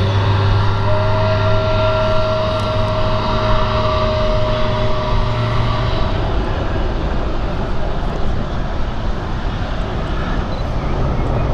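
Jet airliner's engines running loud, a steady rush with whining tones that fade away about halfway through.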